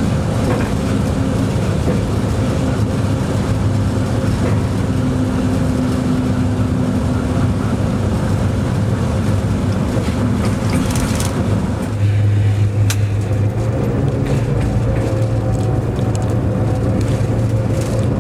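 Locomotive running, heard from inside the driver's cab: a steady low engine drone with running noise. About twelve seconds in, the low engine note grows stronger, and a few faint clicks come through.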